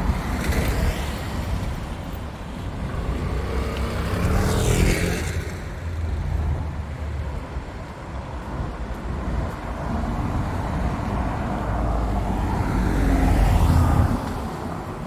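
Road traffic: motor vehicles passing close by over a steady rumble. One goes past about five seconds in, dropping in pitch as it passes, and a louder one near the end.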